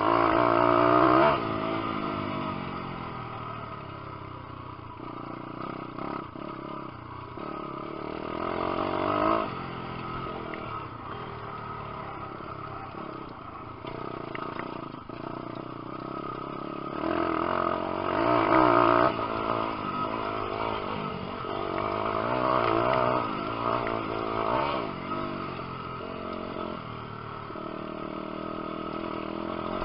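Lifan 150cc single-cylinder four-stroke pit bike engine being ridden hard, its pitch rising and falling with the throttle. It surges loudest about a second in, again around nine seconds, and again around eighteen to nineteen seconds.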